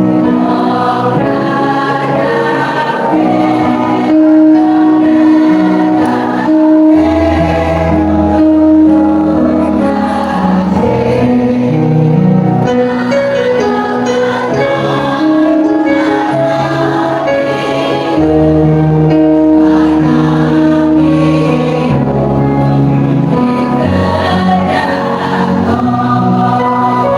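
Choir singing in held notes that move step by step, with deep bass notes underneath in two stretches.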